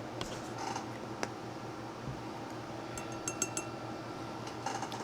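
A few light glassy clinks of small hobby-painting tools, a quick cluster of them about three seconds in, over a steady low electrical hum.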